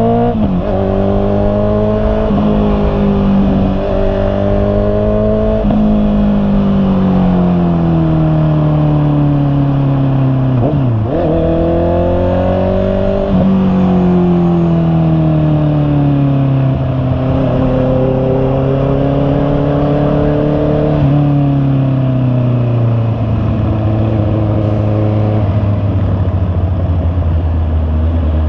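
The inline-four engine of a Honda CB650R motorcycle under way. Its revs climb and drop sharply a few times in the first six seconds as it shifts up, then fall away and rise again a couple of times. It settles into a low, steady note near idle for the last five seconds.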